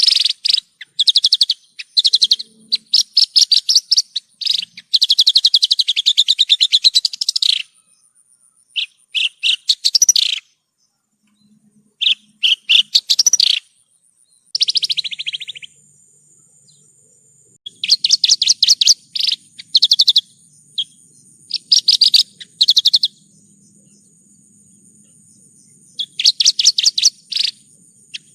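Javan bush lark (branjangan) singing: repeated bursts of rapid trilled phrases, each a second or so long, broken by short pauses. A thin, steady high-pitched tone runs behind the song.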